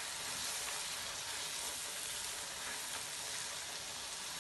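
Onion-tomato masala with freshly added ground spices frying in oil in a nonstick pan, a steady sizzle, while it is stirred with a silicone spatula.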